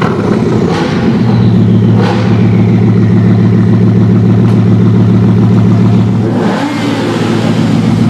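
Bugatti Veyron's quad-turbocharged 8.0-litre W16 engine, fitted with a Mansory exhaust, idling steadily, with a couple of short revs in the first two seconds and another brief change in the sound near the end.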